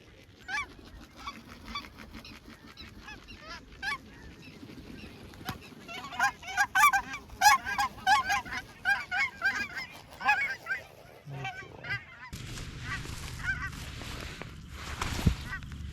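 Snow geese calling: scattered high honks that build into a dense, overlapping chorus of a flock in the middle, then thin out. A low rushing noise comes in near the end.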